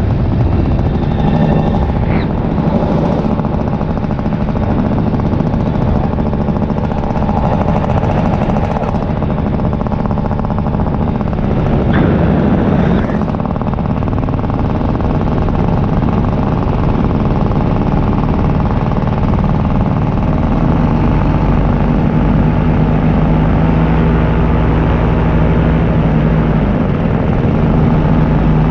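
Paramotor engine and propeller running steadily in flight, a constant pitched drone.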